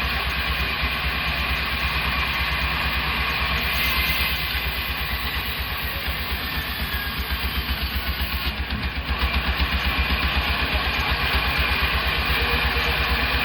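Sawmill machinery running: a steady, loud mechanical drone with a rapid, even low pulse, dipping slightly for a moment about halfway through.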